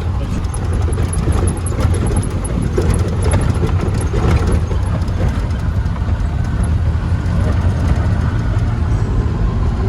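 Motor vehicle running on the road: a steady low rumble of engine and road noise.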